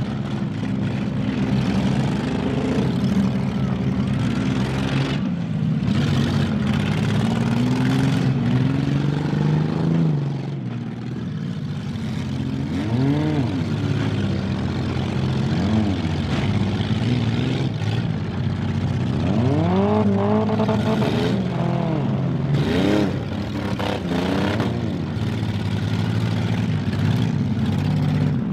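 Demolition derby car engines running hard, with one or more engines revving up and down repeatedly over a steady engine drone.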